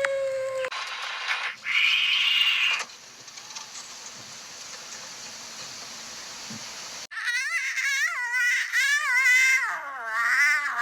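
A string of animal calls: a short higher-pitched call in the first few seconds, a quieter stretch, then from about seven seconds in a long, loud wavering, warbling call.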